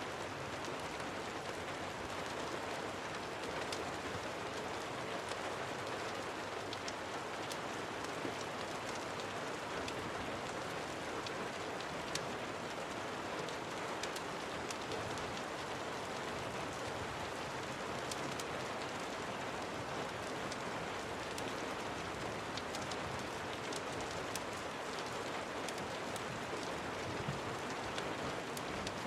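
Steady rain falling, an even rushing hiss, with scattered small sharp ticks throughout.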